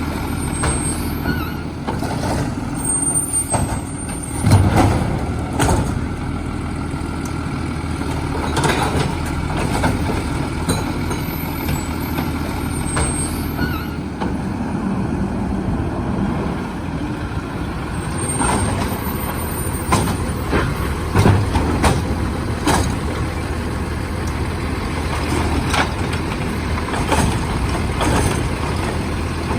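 Autocar split-body garbage truck with its engine running steadily, broken by irregular clanks and knocks and short air hisses.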